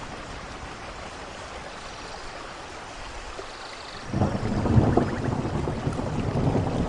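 Steady rain falling, then a low roll of thunder that starts about four seconds in and rumbles on, much louder than the rain.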